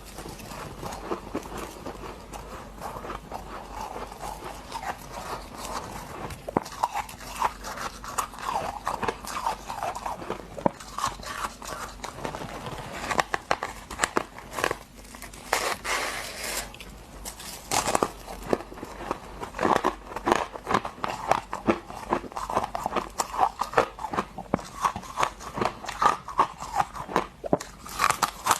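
Close-miked crunching and chewing of hard freezer frost: dense, irregular crackly crunches that come in bites, growing louder and busier in the second half.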